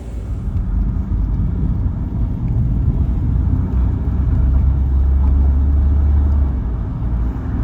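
A car on the move, heard as a loud, steady low rumble of road and wind noise. It starts suddenly, swells in the middle and cuts off near the end.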